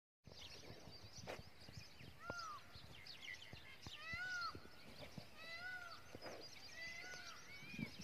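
Birds calling: a clear call that rises and falls, repeated about every one to two seconds, over a busy chatter of short higher chirps, with a few faint clicks.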